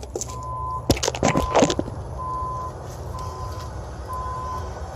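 An electronic beeper sounding a single steady tone in half-second pulses about once a second, over a low steady hum. A few sharp clicks and clatters come about a second in.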